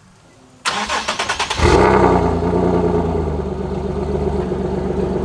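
A warm Nissan 370Z Nismo's turbocharged VQ37 V6 being started through its Tomei exhaust. The starter cranks for about a second with rapid, even pulses, then the engine catches and settles into a steady, loud idle.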